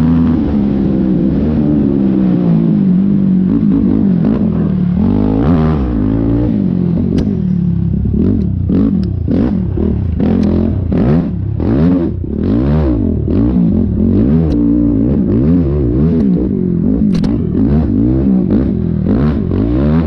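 Yamaha YFZ450R sport quad's single-cylinder four-stroke engine revving up and down again and again as it is ridden hard over a rough, whooped-out track. From about seven seconds in come many quick clattering knocks as the quad hits the bumps.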